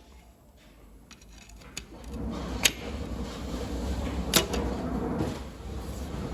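Engine parts being handled during reassembly: a low rumbling, shuffling noise that builds about two seconds in, with two sharp clicks about a second and a half apart.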